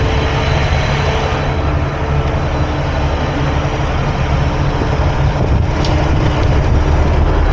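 Semi-truck running, a loud, steady low engine rumble with a faint hum and road noise.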